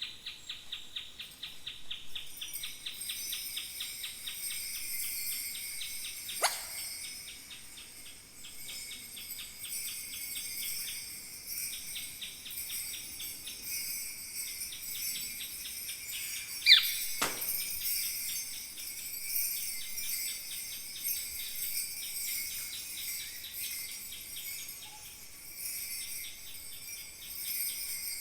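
Kaskawillas, Mapuche bronze bells, shaken in a fast, steady, shimmering jingle to imitate falling water. Two sudden sharp swooping accents cut through, about six seconds in and again around seventeen seconds, the second the loudest.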